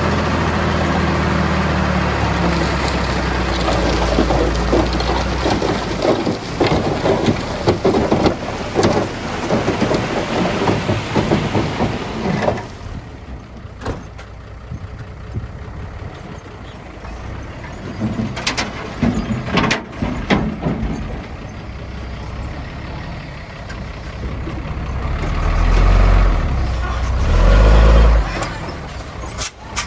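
Heavy diesel earthmoving machinery working, a bulldozer and dump truck, with dense rattling and scraping through the first twelve seconds or so. It then runs quieter with a few sharp clanks, and a low engine rumble swells twice near the end.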